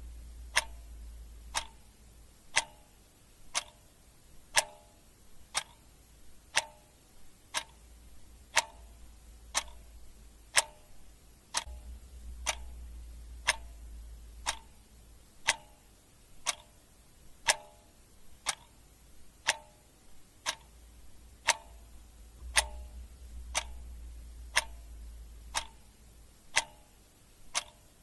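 Clock ticking steadily in an even tick-tock, about two ticks a second, alternating stronger and weaker.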